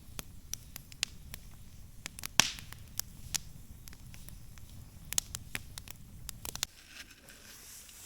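Campfire crackling, with irregular sharp pops and snaps over a low rumble. It cuts off abruptly about two-thirds of the way through, leaving only faint, quiet ambience.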